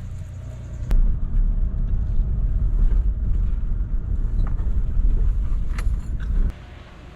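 Loud, ragged low rumble that starts about a second in and cuts off suddenly near the end.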